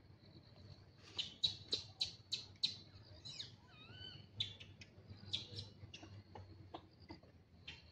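Bird calling: a quick run of about seven sharp, high chirps about a second in, then a few warbling whistles and scattered chirps. A faint steady high-pitched tone runs beneath.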